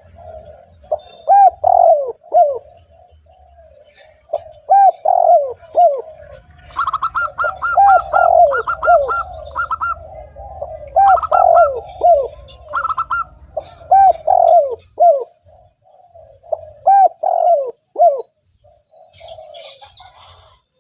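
Spotted dove cooing over and over, each phrase a few falling notes about three seconds apart, with softer cooing going on behind. About a third of the way in, a quick run of higher repeated notes joins for several seconds.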